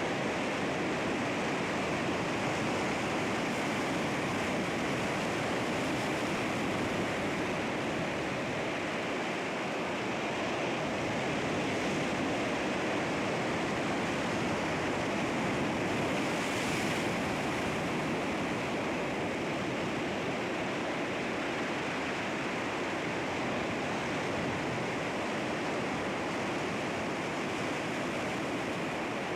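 Sea waves washing against rocks: a steady rush of surf with little rise and fall in loudness.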